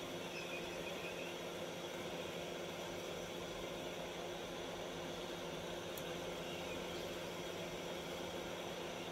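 Hot-air rework station blowing steadily: an even hiss with a constant hum beneath it, as the air gun heats an iPhone XR logic board to lift off its metal shield. A faint click about six seconds in.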